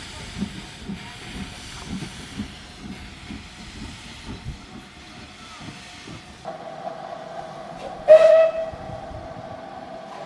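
Steam locomotive working, with exhaust beats about twice a second over a steady hiss of steam. The beats stop abruptly about six seconds in, and a short, loud steam whistle blast sounds about two seconds later.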